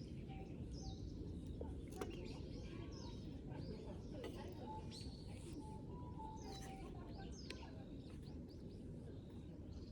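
Small birds chirping with many short calls over a steady low rumble, with a single sharp click about two seconds in.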